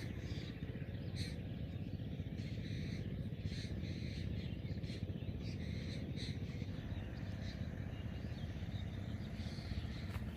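Birds chirping and calling now and then over a steady low background rumble.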